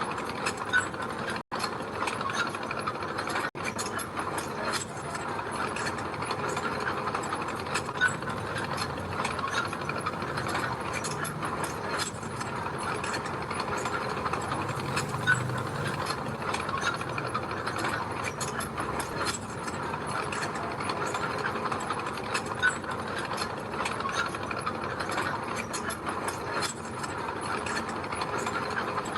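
Mini bulldozer working gravel: its engine runs steadily under a continuous clicking clatter of its steel tracks. There are two very brief breaks near the start.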